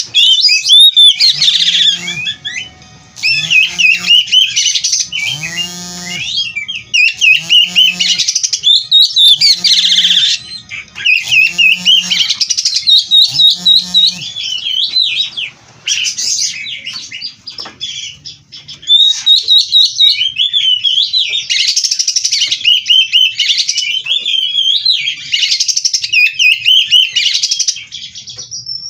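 Oriental magpie-robin (kacer) singing a full, continuous song of rapid warbles, trills and whistles packed with mimicked phrases. Through the first half, a series of short, low, pitched calls repeats about once a second beneath the song.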